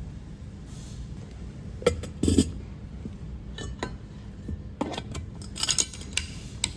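Cutlery clinking and knocking against dishware: several separate clinks, the loudest about two seconds in, with more clustered near the end.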